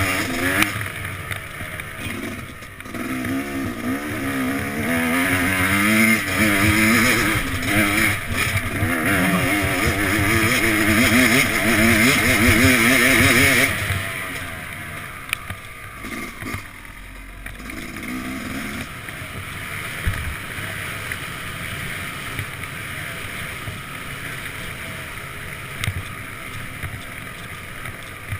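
Yamaha YZ250X single-cylinder two-stroke dirt bike engine under riding, its pitch rising and falling as the throttle is worked. About halfway through it drops to a lower, quieter running, with one short blip of throttle a few seconds later.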